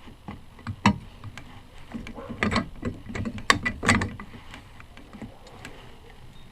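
Small metal parts being handled and fitted by hand: scattered sharp clicks and knocks, one sharp click about a second in and a busy run of knocks between about two and four seconds in, then quieter handling.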